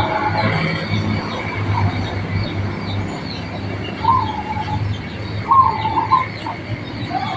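Zebra dove (perkutut) cooing in short warbling phrases, once at the start, again about four seconds in, and a longer one around five and a half seconds in. Quick, high, repeated chirps from smaller birds and a low hum run underneath.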